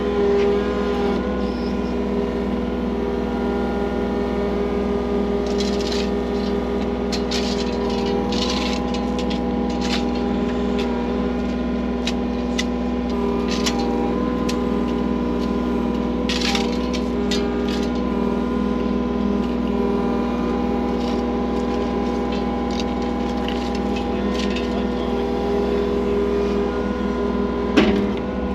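Skid steer loader engine running at a steady speed, with scattered knocks and scrapes from the work through the middle.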